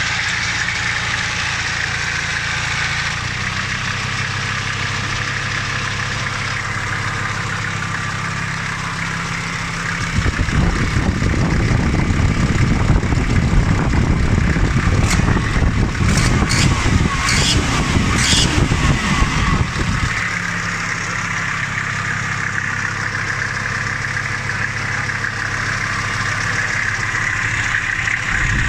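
Turbocharged Toyota 1PZ five-cylinder diesel engine running steadily, then running louder and harder for about ten seconds from about a third of the way in, with a few sharp clicks near the middle, before settling back to a steady run.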